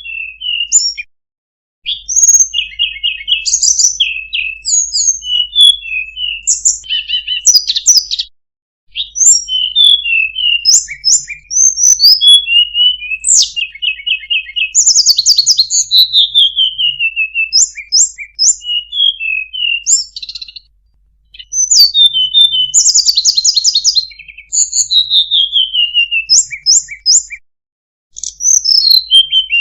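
Tledekan gunung singing: rapid, varied phrases of high chirps, short trills and falling slurred whistles, delivered in long bursts with a few brief pauses.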